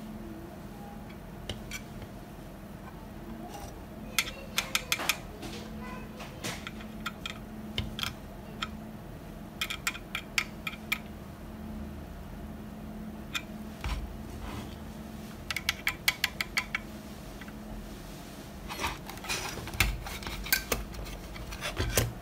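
Small metal tools and parts clinking and tapping against each other in short rapid clusters, with quiet gaps between, over a steady low hum.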